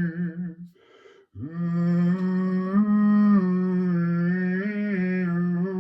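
A person's voice humming long held notes with a slight waver, breaking off briefly for a breath about a second in, then humming again with small steps in pitch.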